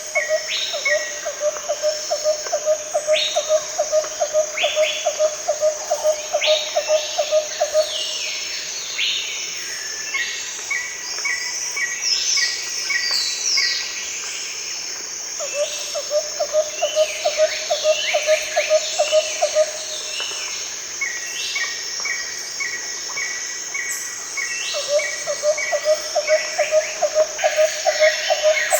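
Forest ambience with several birds calling in short whistled notes, over a steady high insect drone. A low, rapid pulsing call comes in runs of several seconds, stopping about a third of the way in and starting again twice.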